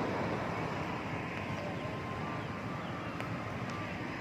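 Steady rumble of distant motor traffic, fading slowly, with a faint tick or two near the end.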